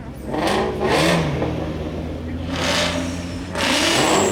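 Ford Mustang engine revving hard in three surges over a steady running note.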